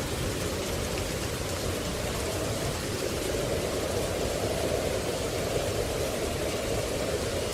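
Steady heavy rain, an even unbroken hiss with no distinct drops.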